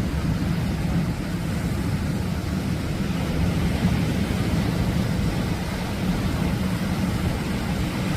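Ocean surf breaking in a steady low rumble that swells slightly midway.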